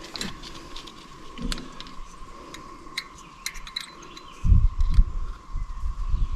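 Scattered light clicks and taps from hands working on an old Ford tractor's distributor cap and spark plug wires, with a few low thumps a little over four seconds in, over a faint steady high tone.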